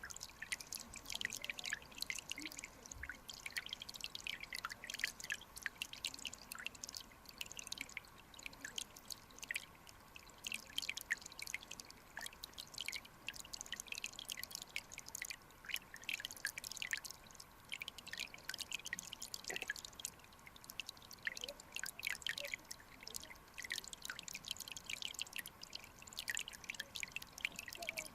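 Clear mountain stream water trickling and dripping, a dense, irregular patter of small drips and clicks.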